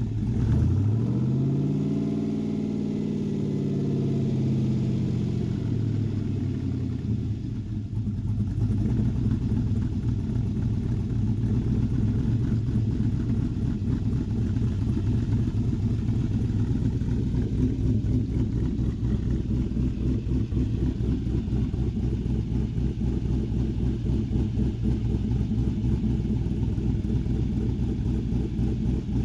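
An engine revs up and back down in the first few seconds, then runs steadily with a rough, pulsing low note for the rest of the time.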